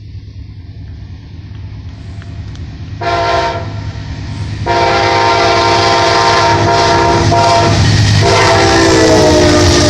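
Amtrak train approaching with its rumble building. Its locomotive air horn sounds a short blast about three seconds in, then a long blast, a brief break, and another long blast whose pitch drops slightly near the end as the train passes.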